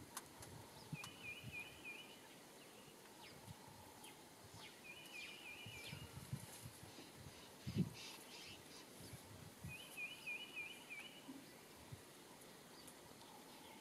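A bird calling three times, each call a quick run of five or six high notes lasting about a second, over faint outdoor background. A low thump sounds a little past the middle, with a few fainter scuffs around it.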